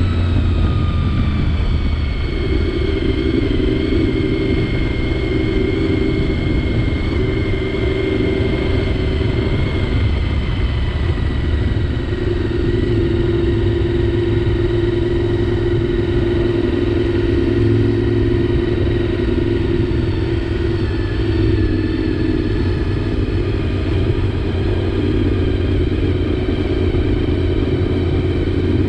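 Honda VFR750's V4 engine running at a steady cruise, its pitch falling briefly near the start and then holding level, with wind rumbling on the helmet-cam microphone.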